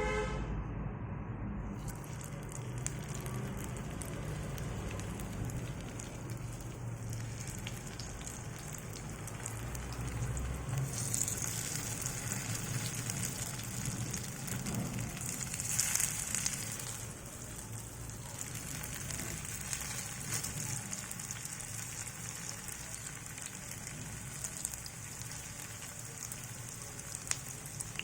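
Chicken cutlets sizzling as they shallow-fry in hot oil in a pan, a steady crackling hiss that grows brighter about eleven seconds in.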